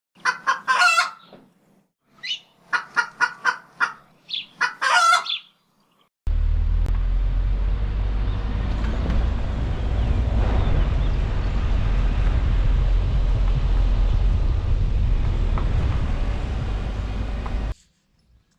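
A chicken calling in three short bursts of pulsed calls. Then, after a cut, a loud, steady, low rumbling noise lasts about eleven seconds and stops abruptly.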